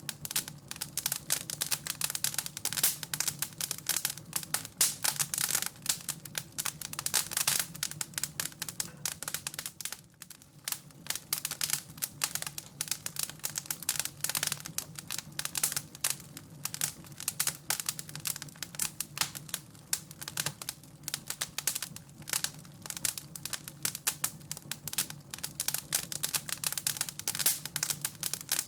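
Wood fire crackling in a fireplace: dense, irregular pops and snaps over a low, steady hum, with a brief lull about ten seconds in.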